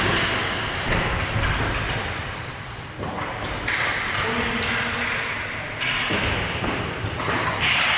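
Game sounds from hockey-style play: thuds and knocks of sticks, ball or puck against the boards, with an occasional ping, over a noisy echoing background.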